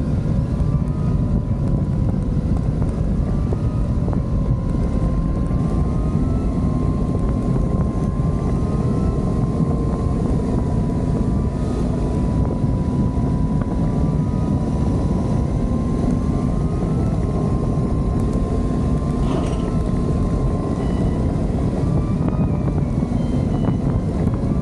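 Adventure motorcycle engine running steadily under way, with wind buffeting the microphone.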